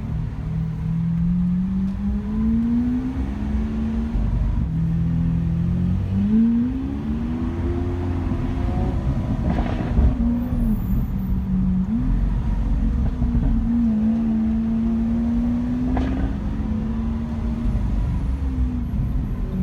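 Lamborghini Aventador's V12 engine driving in traffic, its pitch rising and falling with repeated light revs and lifts, with a sharp exhaust pop about ten seconds in and another about six seconds later.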